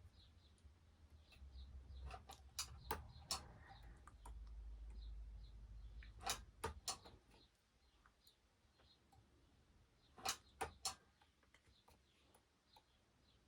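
Portable lithium battery spot welder firing onto nickel strip on 18650 cells: sharp snapping clicks in small groups, three about two and a half seconds in, two about six seconds in and three more about ten seconds in.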